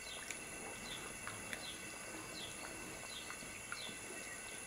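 Faint outdoor ambience: small birds chirping repeatedly in short falling notes, with a few light clicks.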